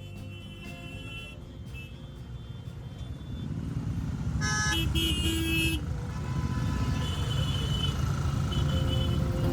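Motorcycle engines running on the road, getting louder about a third of the way in, with a vehicle horn honking briefly near the middle.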